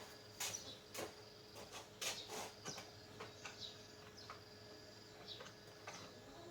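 Scattered light clicks and taps at irregular times, a few a second, over a faint steady hum.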